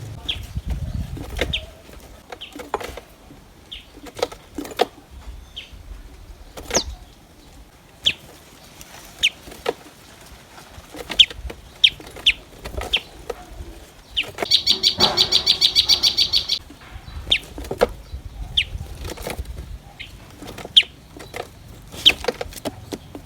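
Common tailorbirds calling at the nest: short, sharp, high chirps repeated irregularly, about one a second, with a rapid rattling trill lasting about two seconds just past the middle.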